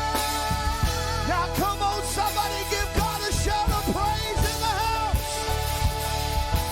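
Live worship band music: drums and bass under held chords, with a melodic line sliding between notes above them.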